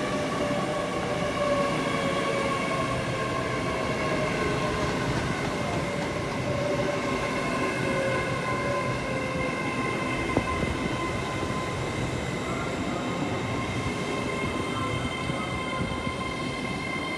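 LNER Class 800 Azuma bi-mode train 800113 slowing. Its whine falls slowly in pitch over the first half, then holds steady over a continuous rumble.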